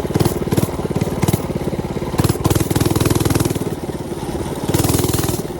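Mini bike's small engine running, revved in several short bursts and a couple of longer surges of throttle.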